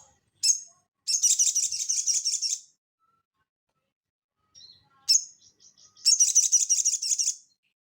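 Sogon (sogok ontong) songbird singing: a high, sharp call note followed by a rapid, high trill lasting about a second and a half, then after a pause another sharp call and a second quick trill.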